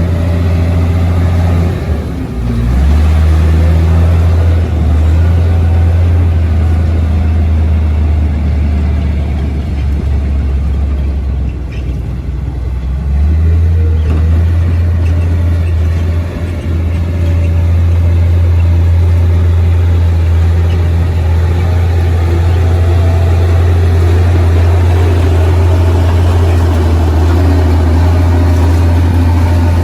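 Komatsu D58P bulldozer's diesel engine running with a steady low drone. It drops briefly about two seconds in and again around twelve seconds in, then comes back up.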